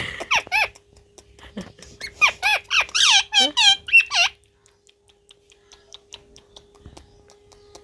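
Parrot giving short, high-pitched squawks that rise and fall in pitch: a couple right at the start, then a rapid run of them from about two to four seconds in. After that only faint clicks and a faint steady hum remain.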